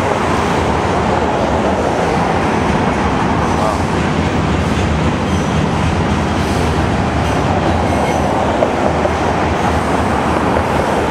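Loaded potash covered hopper cars of a freight train rolling past, a steady, continuous noise of steel wheels on rail.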